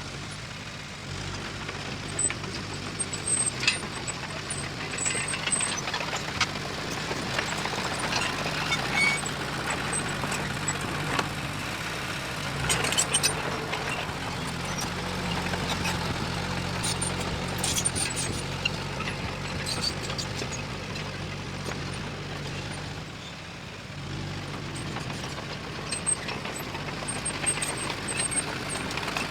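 Diesel engine of earthmoving machinery running steadily under work, with scattered sharp knocks and clanks over it.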